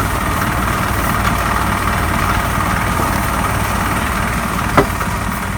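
A vehicle engine idling steadily, with one sharp knock near the end.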